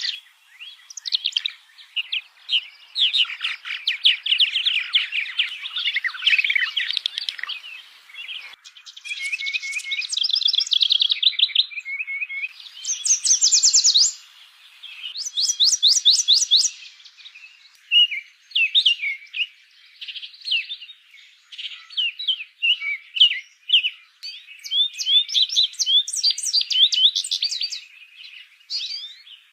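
Songbird song: fast runs of high chirps, warbles and trills with short pauses, including two quick trills of evenly repeated notes about halfway through.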